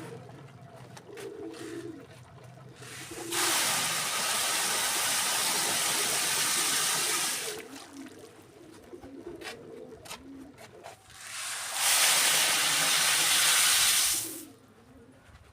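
Pigeons cooing in the background, broken by two spells of loud, steady rushing like pouring: one about four seconds long starting a few seconds in, and a shorter one near the end.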